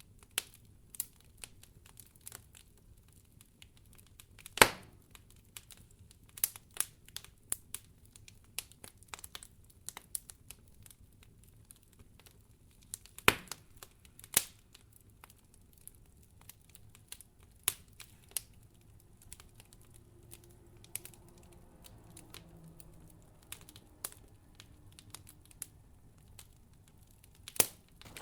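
Wood fire crackling in a fireplace: irregular sharp pops and snaps over a faint low rumble, the loudest pops about four and a half and thirteen seconds in.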